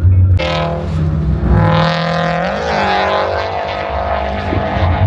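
Car engine revving hard at high rpm during a drift. Its pitch wavers and dips about two and a half seconds in, then holds steady.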